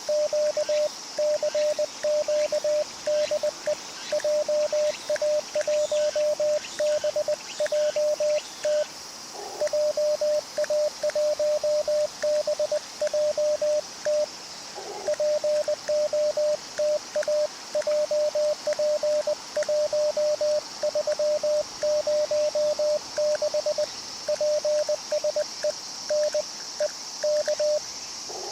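Morse code CQ call keyed on an Icom IC-705 transceiver, heard as a steady single-pitch sidetone switching on and off in dots and dashes at about 20 words a minute, with two brief pauses between repeats.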